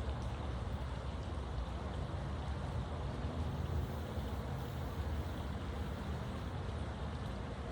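Steady outdoor background noise: a low, fluttering rumble with a fainter hiss above it, with no distinct events.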